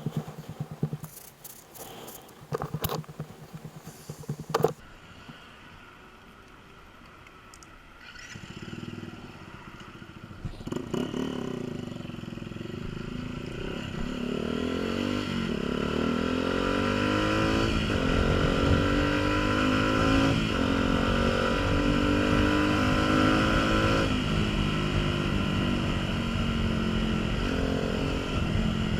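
Honda CBF125's single-cylinder four-stroke engine pulling away and accelerating through several gear changes, its pitch rising and dropping back at each shift, with wind rumbling on the microphone. The first few seconds hold scattered clicks and clatter before the engine note builds.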